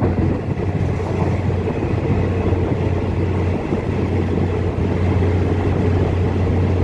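Passenger train running, heard from on board: a steady rumble with a constant low drone underneath.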